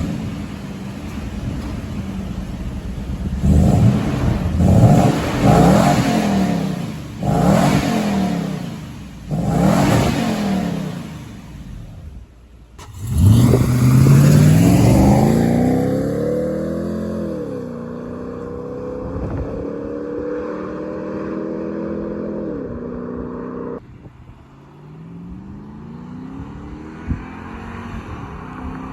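Toyota Sequoia's 4.7-litre V8 through a new BAmufflers cat-back exhaust with a 12x5 muffler and a Helmholtz resonator. It idles after start-up and is revved in several quick blips. After a break about twelve seconds in, it accelerates under way: the pitch climbs, levels off, drops once and climbs again near the end.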